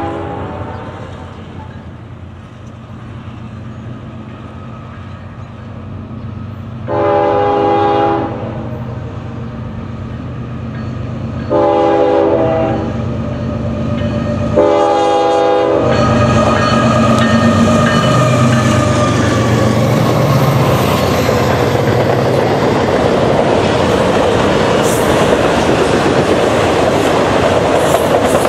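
Freight train approaching and passing: the locomotive horn sounds a blast that ends at the very start, then three more separate blasts of about a second each. From about halfway through, the diesel locomotives go by with a loud rumble whose tone drops in pitch as they pass, followed by freight cars rolling past with wheel clatter on the rails.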